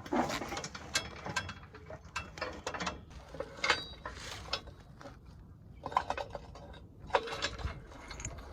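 Ratchet wrench clicking in short bursts as a bolt is run in and tightened on a stalk chopper, replacing a bolt that broke out.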